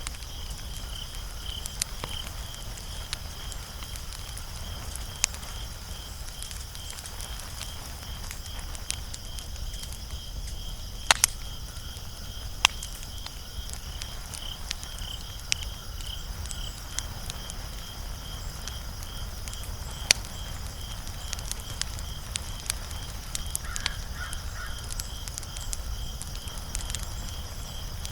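Wood fire crackling: a steady run of small snaps, with a few louder pops, over a low rumble. A steady high pulsing trill runs underneath.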